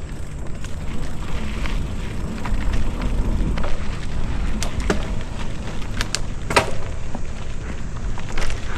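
Mountain bike ridden over a dirt trail: a steady low rumble of tyres and wind on the microphone, with a few sharp clicks and rattles from the bike, the loudest about six and a half seconds in.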